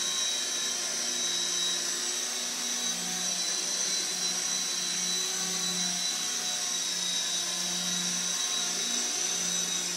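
Walkera CB180Q micro RC helicopter in a hover: a steady high whine from its electric motor over the whirr of the rotor blades.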